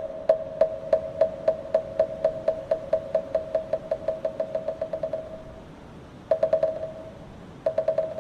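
A moktak (Buddhist wooden fish) struck in a roll that speeds up from about two strikes a second to a fast patter and dies away about five seconds in. Two short, quick rolls of a few strikes each follow near the end.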